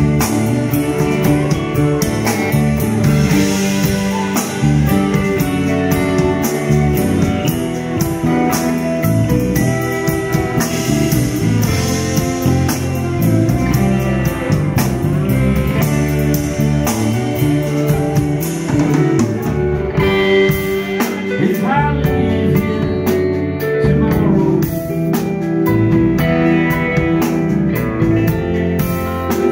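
A live band playing: guitars over a drum kit, with singing.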